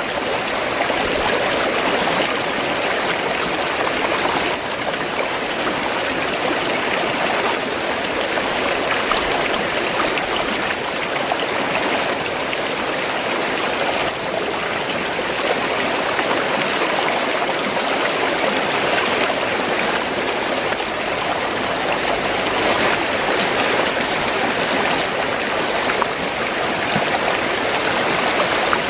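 Fast-flowing stream of water gurgling and rushing steadily.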